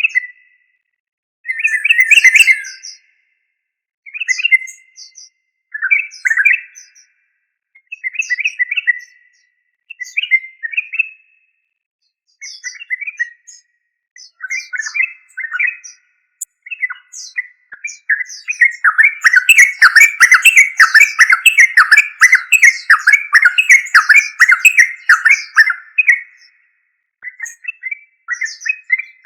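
Yellow-vented bulbul singing: short bubbly phrases about every two seconds, then a long unbroken run of song lasting about eight seconds, starting some eighteen seconds in.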